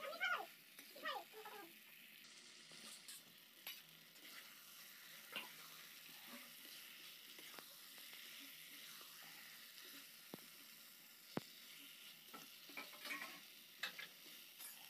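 Chicken and potato pieces in thick masala sizzling faintly in an iron kadai, stirred with a metal spatula that scrapes and clicks against the pan now and then. A brief vocal sound comes near the start.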